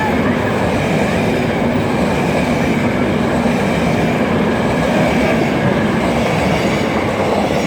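Passenger train running past, a loud steady rumble of its wheels on the rails.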